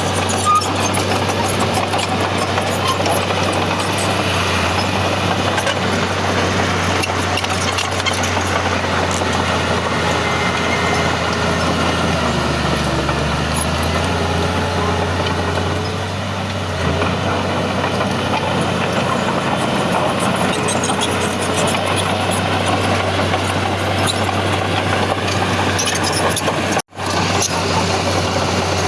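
Heavy diesel earthmoving machinery running steadily under work, a constant engine drone with clatter over it. The sound cuts out for a split second near the end.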